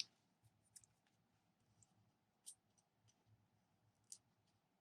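Near silence with a few faint, scattered clicks and taps from small paper pieces and foam adhesive dimensionals being handled and pressed on a tabletop.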